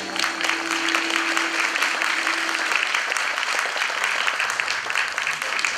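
Audience applauding at the end of a song, while the song's last held note fades out about two and a half seconds in.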